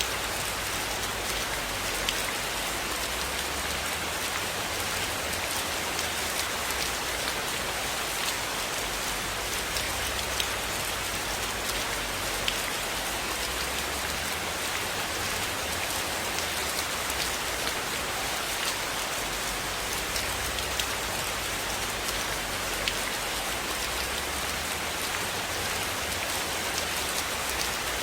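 Steady rain falling, an even hiss with scattered sharp little ticks and taps through it.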